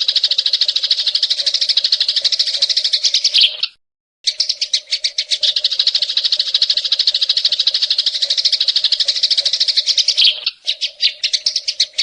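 Recorded songbird giving a fast, dry chattering trill, its notes repeated very quickly. It breaks off for about half a second near the four-second mark, then starts again, and falters briefly near the end.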